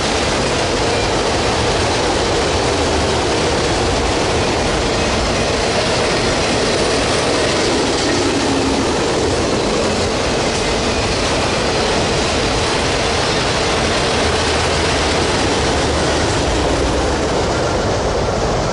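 Freight train of autorack cars rolling past, a steady, loud noise of wheels running on the rails.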